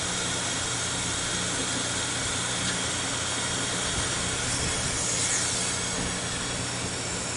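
Pneumatic grinder running with a steady hiss of exhausting air and a low hum underneath, grinding the teeth of a sawmill band blade.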